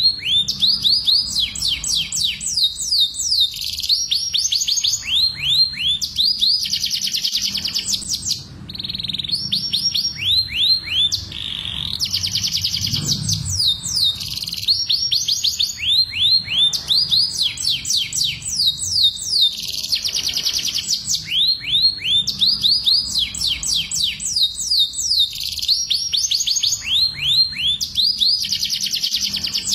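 Domestic canaries singing a breeding song: fast trills of repeated, sharply falling high notes in phrases of a second or two, with brief gaps between them. A low hum runs underneath.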